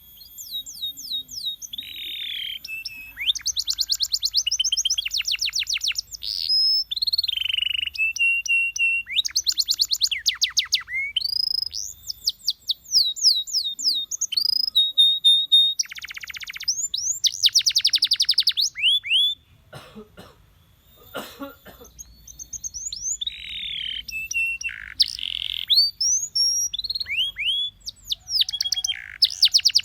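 Canary singing a long, varied song of fast trills, rolls and sweeping whistled notes, broken by a short pause with a few clicks just past the middle.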